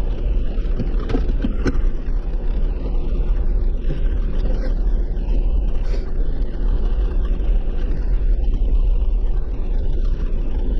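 A 4x4 driving along a rough forest gravel road: a steady low rumble with a few sharp knocks, loudest about two seconds in and again about six seconds in.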